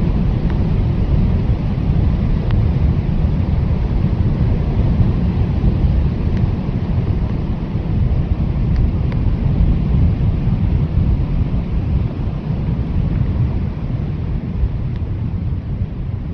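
Strong blizzard wind blowing steadily as a deep, even rumble, without letting up.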